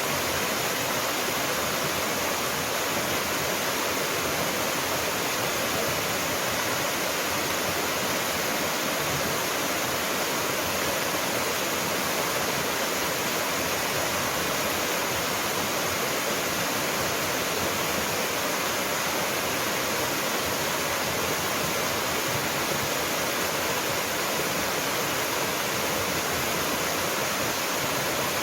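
Mountain waterfall: water falling and splashing in a steady, even rush.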